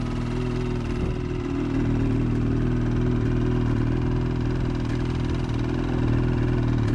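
Ski-Doo 600R E-TEC twin-cylinder two-stroke snowmobile engine idling steadily while it warms up in break-in mode, with the windshield vibrating on its mounts. It grows slightly louder about two seconds in.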